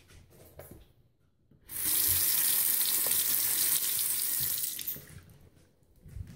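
Bathroom sink tap running water into the basin. It comes on suddenly about a second and a half in, runs steadily for about three seconds, then tails off as it is shut.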